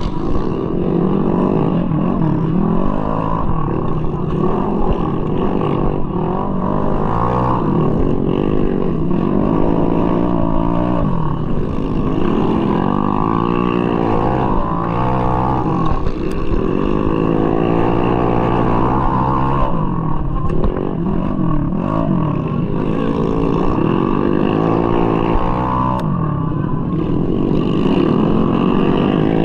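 Tuned 200cc bore-up Mahindra Rodeo scooter's single-cylinder engine, heard up close from the rider's point of view, revving hard and easing off over and over, its pitch rising and falling every few seconds as the throttle is worked.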